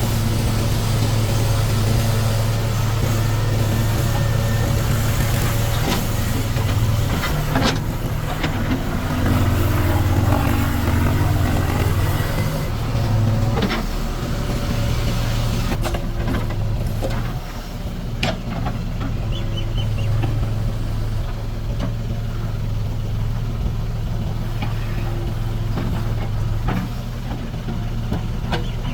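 Diesel engines of a backhoe loader and tractor running steadily, the engine note changing for a few seconds about a third of the way through, with scattered sharp knocks.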